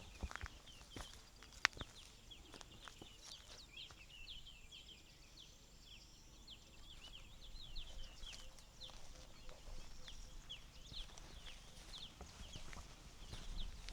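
Many small birds chirping in quick, overlapping short notes throughout, with a few sharp clicks in the first two seconds, the loudest about a second and a half in.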